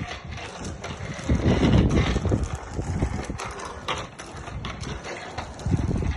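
Bicycle rolling with mechanical ticking and rattling from its drivetrain, over gusts of wind rumbling on the microphone.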